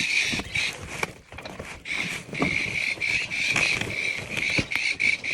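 Pet parrots calling over and over in short, harsh chirps, with a few knocks and rustles of cage parts being handled.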